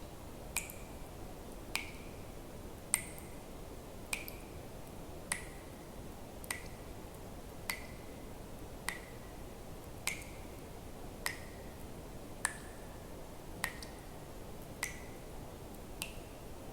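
Water drops falling one at a time at an even pace, about one every 1.2 seconds, each a sharp plink with a short ringing tone, over a faint steady hiss.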